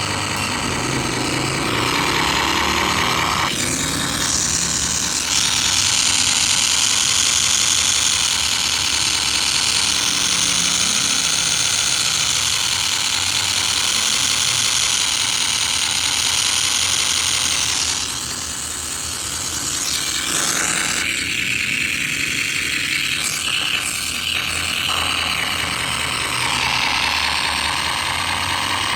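Simulated M35 army truck engine sound played through the small speaker of an RC sound-engine module, running continuously. Its tone changes several times, with a brief dip about two-thirds of the way through.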